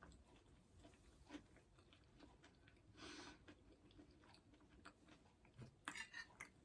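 Faint chewing and mouth sounds of someone eating: scattered soft clicks, a short wet smack about three seconds in, and a few sharper clicks near the end.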